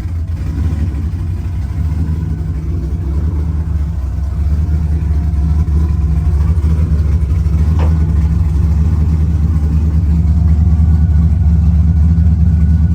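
Vehicle engine running steadily while driving, a deep continuous drone that slowly grows louder.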